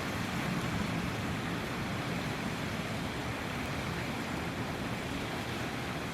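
Steady rushing ambient noise, even and unbroken, with most of its weight low down and no distinct calls, clicks or knocks standing out.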